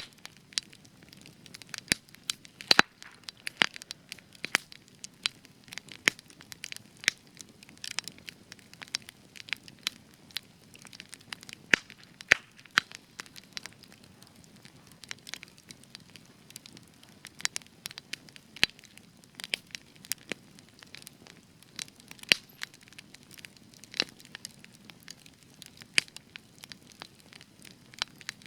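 Spruce campfire crackling, with sharp, irregular pops and snaps over a low steady hiss of the flames.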